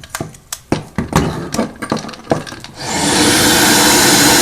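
Several clicks and knocks as an airflow meter is pushed into a central vacuum wall inlet. About three seconds in, the central vacuum starts and air rushes steadily and loudly through the inlet with a low hum, at full suction.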